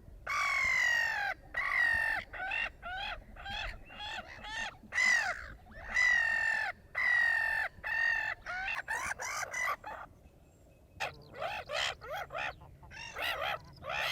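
Gull calls: a run of harsh, drawn-out cries, many of them falling in pitch, coming about once a second. After a short pause, a series of shorter calls follows.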